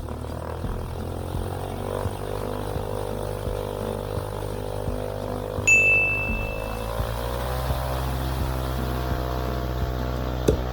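CubCrafters Carbon Cub EX's piston engine running steadily at low power after starting, its pitch shifting slightly about halfway through. A single high electronic ding sounds for about a second in the middle, and there is a sharp click near the end.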